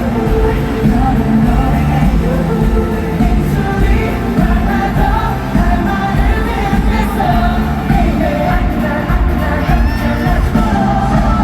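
Live K-pop concert performance as heard from the audience: a male group singing over a loud pop backing track, with crowd noise underneath.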